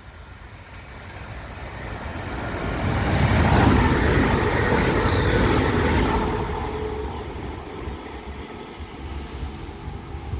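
Class 350 electric multiple unit passing at speed. The rumble of wheels on rail and the rush of air build up over the first few seconds, peak about three to six seconds in, then fade as it goes away.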